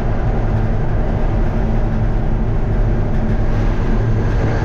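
Steady engine drone and road noise from a vehicle driving along a road, heard from inside the cab: a constant low hum with no change in pace.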